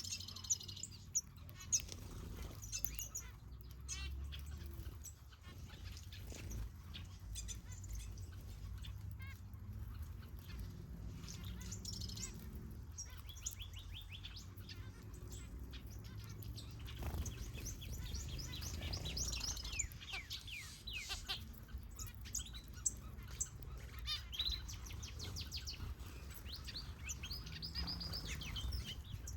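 Aviary finches and softbills chirping and twittering, with many short high calls in quick overlapping runs. There are a few sharp ticks in the first two seconds, over a steady low hum.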